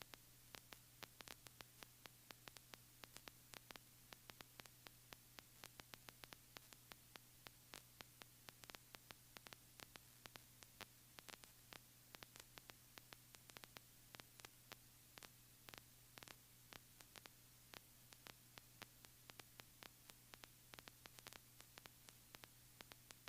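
Near silence: a faint steady electrical hum with many scattered faint static clicks.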